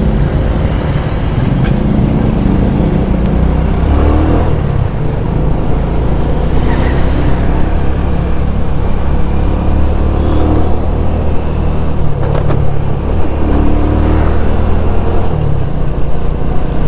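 SYM Bonus 110 motorcycle's small single-cylinder four-stroke engine running while riding, under a steady rumble of road and wind noise. The engine note rises with the throttle about four seconds in and again near the end.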